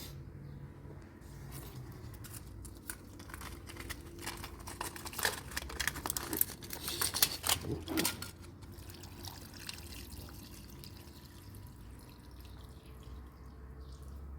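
Water splashing and dripping, busiest and loudest a few seconds into the middle, over a low steady hum.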